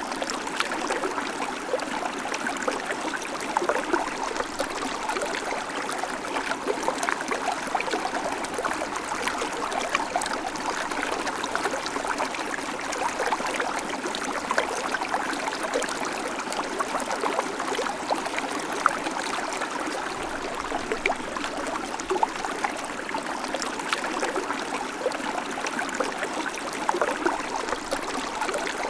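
Babbling creek: shallow water running and trickling steadily over stones, a constant splashing hiss dotted with small bubbling splashes.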